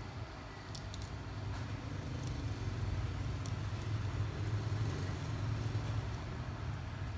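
Steady low hum, a little louder after about two seconds, with a few light clicks in the first second.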